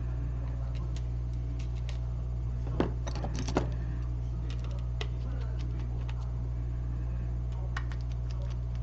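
Small hard clicks and taps of repair tools and parts being handled while an iPhone 6 Plus is worked on, scattered and irregular, with a sharper cluster about three seconds in. A steady low hum runs underneath.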